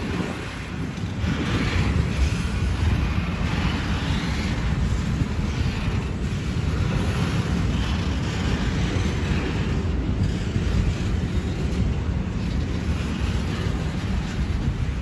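Double-stack intermodal freight train's container-loaded well cars rolling past, a steady rumble of steel wheels on rail.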